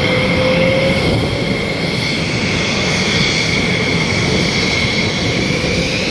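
Aircraft engine noise: a loud, steady roar with a high whine held near one pitch throughout.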